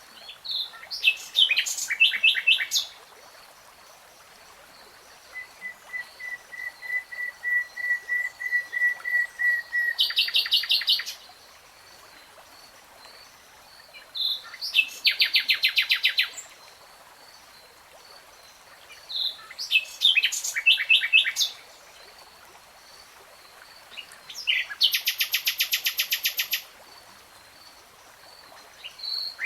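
A nightingale singing: separate phrases every four to five seconds with short pauses between them. One phrase is a slow run of pure whistled notes that grow louder and break into a fast rattling trill; the others are rapid buzzing trills and quick chirps.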